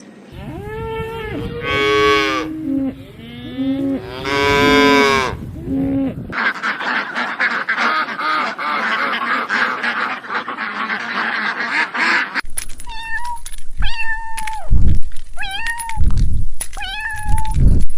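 Several different farm animals calling in turn: two long drawn-out calls, then a dense noisy stretch of many sounds at once, then a series of short calls that rise and fall in pitch, with low thumps among them.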